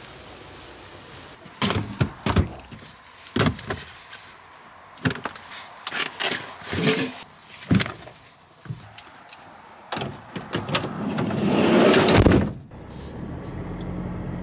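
Knocks, clicks and jangling keys as someone settles into a vehicle, then a swelling rush about eleven seconds in as the engine is started, settling into a low steady run near the end.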